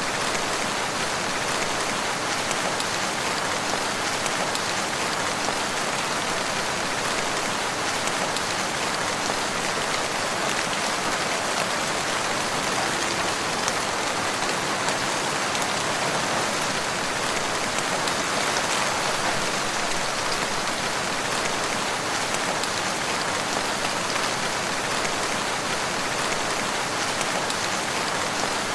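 Steady rain falling on surfaces, an even hiss made of countless drops, with no change in strength.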